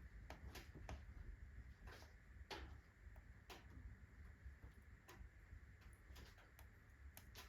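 Wood fire in a fireplace crackling quietly: irregular sharp ticks and pops, a few each second.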